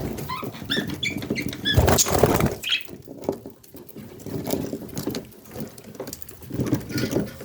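Budgie chicks squeaking: a quick run of short, high chirps in the first two seconds, then a loud noisy burst and fainter scuffling sounds.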